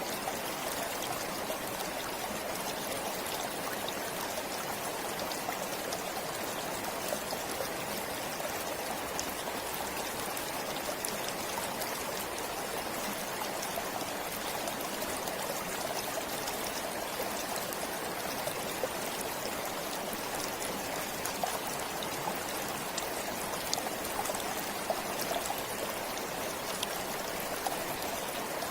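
A forest stream flowing steadily, with small splashes and trickles over the rush of water.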